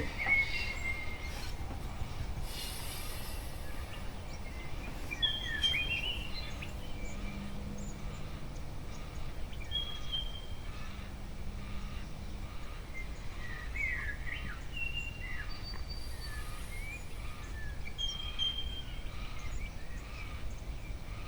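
Wild birds calling outside: scattered short whistled notes and chirps, some sliding in pitch, over a steady low background rumble.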